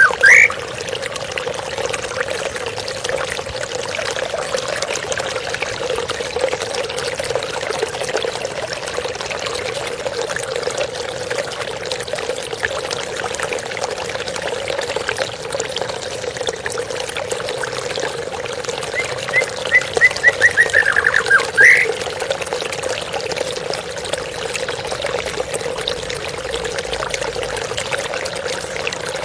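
Steady flowing water, pouring and trickling. About 19 seconds in, a bird calls once: a quick run of short notes that ends in an upward sweep.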